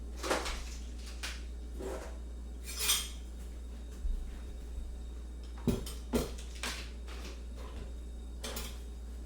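Crockery and cutlery being handled: about seven short, irregular clinks and knocks of dishes and spoons, over a steady low hum.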